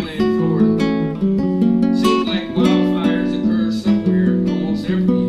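Acoustic guitar music, plucked and strummed notes moving through chord changes.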